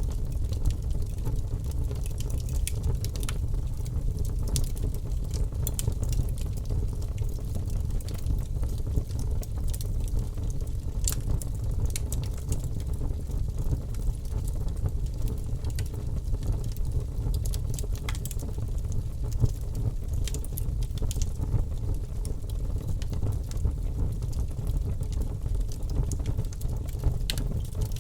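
Logs burning in a fireplace: a steady low rumble of flame with frequent sharp crackles and pops scattered throughout.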